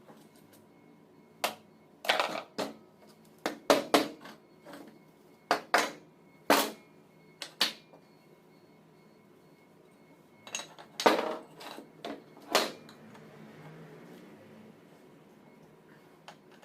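Metal hand tools and alternator parts knocking and clattering: a string of sharp clacks and knocks in the first half, then a second cluster of a few more near the middle.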